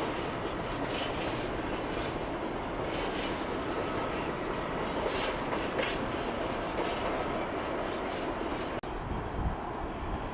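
Freight train of bogie hopper wagons rolling slowly, with a steady rumble and irregular clicking and clanking from the wheels over rail joints and points.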